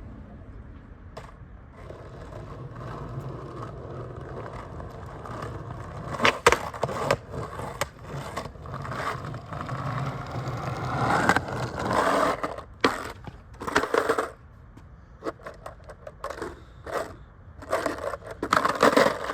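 Skateboard wheels rolling on pavement, then a run of sharp board clacks and a long metal scrape of the trucks grinding along a curb about ten seconds in, followed by more clacks and shorter scrapes.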